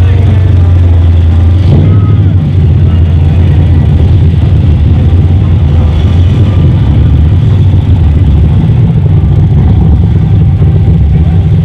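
Two drag-race cars' engines running loudly at idle while staged at the starting line, a steady deep engine drone with small shifts in pitch.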